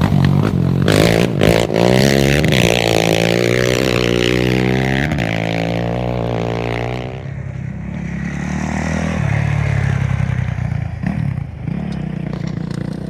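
Off-road racing engine revving, its pitch rising and falling, loud over a rush of noise for about seven seconds, then dropping to a quieter, steadier engine sound.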